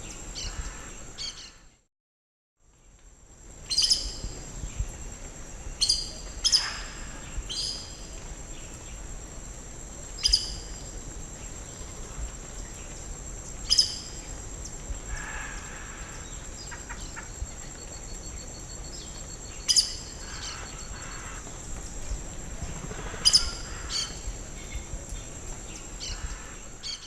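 Birds giving short, sharp, high calls every few seconds over a steady high hum of background insects, with a brief dropout about two seconds in.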